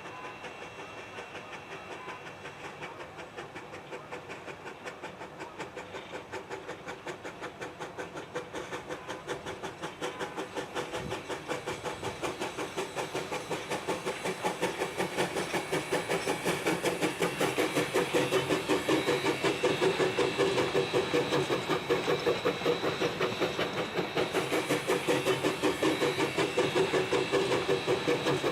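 Narrow-gauge steam locomotive working a train, its rhythmic chuffing at about two to three beats a second, with hiss, growing steadily louder as it approaches.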